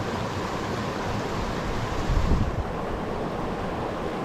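Steady rushing of a mountain creek's flowing water, with a brief low rumble about two seconds in.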